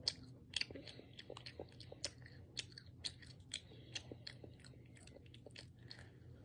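A child chewing a matcha macaron: quiet chewing with a string of small crisp clicks, about two a second.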